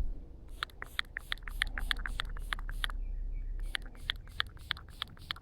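Quick, rhythmic scratching strokes, about five a second, with a short pause midway: dirt being scrubbed off a small metal dog tag during a field clean.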